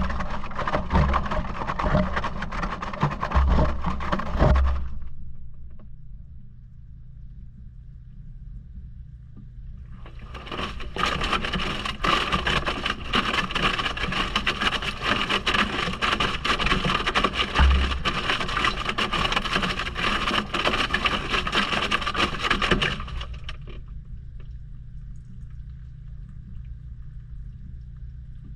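Maytag washing machine heard from inside the drum: water sloshing and laundry churning, with the camera scraping and knocking against the drum. This happens in two long spells, from the start to about five seconds in and again from about ten to twenty-three seconds in. Between them the action stops and only a steady low motor hum remains.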